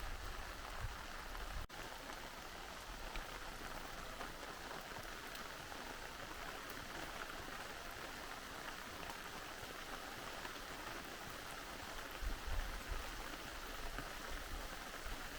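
Steady rain falling, with a brief dropout about two seconds in and a few low thuds near the end.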